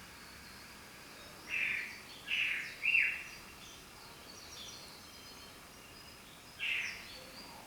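Birds calling: four short, loud calls, three in quick succession about one and a half to three seconds in and one more near the end, with fainter high chirps in between.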